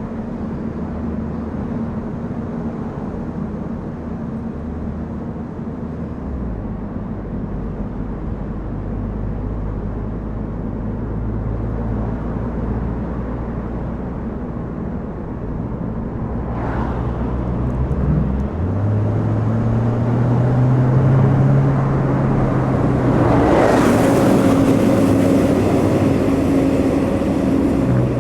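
Car driving on a mountain road: steady engine hum and road noise, the engine note shifting a couple of times as the speed changes. A louder rushing noise swells near the end.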